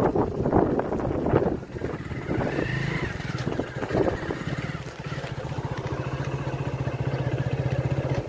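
Single-cylinder Hero motorcycle engine running, settling from about halfway into a steady, even putter at idle. Rough wind and handling noise on the microphone in the first couple of seconds.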